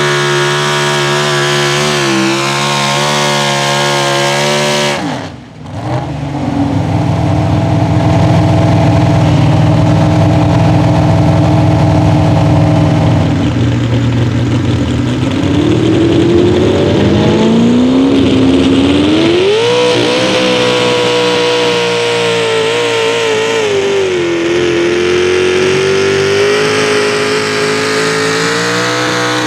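Pulling-truck V8 engines running at high revs under load. The sound drops out sharply about five seconds in and comes back as a lower steady note. After about fifteen seconds the engine climbs in pitch and then holds high revs, dipping briefly once.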